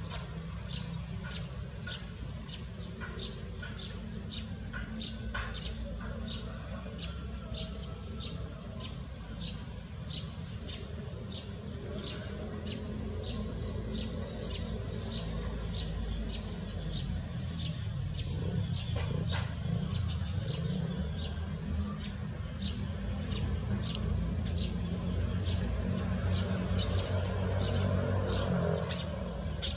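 Forest ambience: insects droning steadily and high, with a short chirp repeating about twice a second. Three brief, sharp, high bird notes stand out, one about 5 seconds in, one near 11 seconds and one near 25 seconds, over a low rumble.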